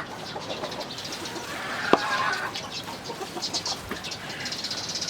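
Chickens clucking, with one sharp click just before two seconds in.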